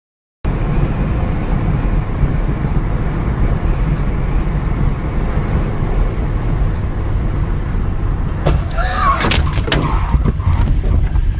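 Dash-cam recording of a car's road and engine noise, a steady low rumble that starts suddenly. About eight and a half seconds in come several sharp knocks and bangs over a second or so, with a brief wavering squeal among them, as of a collision.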